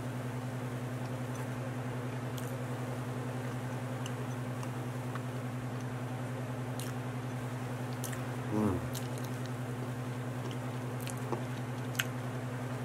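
A man chewing food close to the microphone, with faint mouth clicks, over a steady low electrical hum. About two-thirds of the way through comes a short voiced murmur that falls in pitch.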